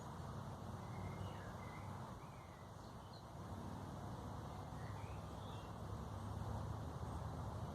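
Small birds giving short, faint chirps every second or so over a steady low background rumble.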